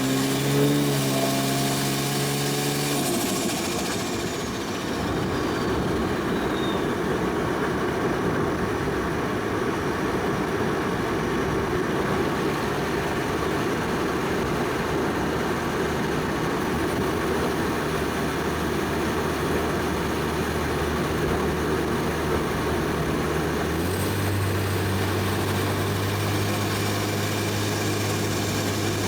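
Single-turbo 1JZ straight-six in a Toyota Soarer running on the move: the engine note holds for about three seconds, then drops off as a high whistle falls away over the next few seconds. Steady engine and road drone follows, and the engine note steps up in pitch near the end.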